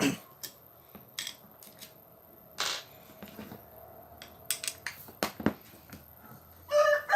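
Scattered clicks and knocks of angle-grinder parts and screws being handled during disassembly, with a short scraping rasp about two and a half seconds in. A rooster begins crowing near the end.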